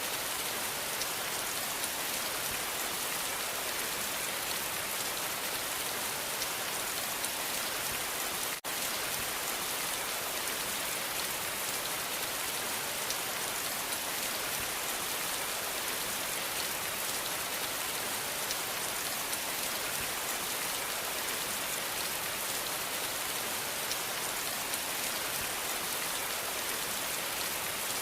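Steady rain falling, a dense even patter of drops. The sound dips out for an instant about eight and a half seconds in.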